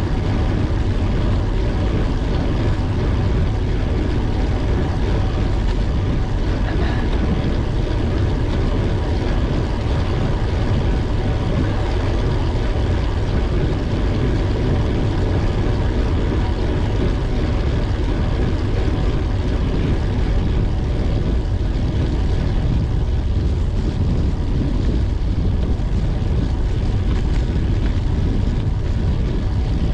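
Steady rush of wind over the microphone with road rumble while riding a bicycle, a dense low roar that stays level throughout, with a faint steady whine above it.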